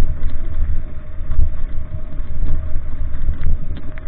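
Motor vehicle running, with a heavy uneven low rumble, a faint steady hum and scattered small clicks and rattles.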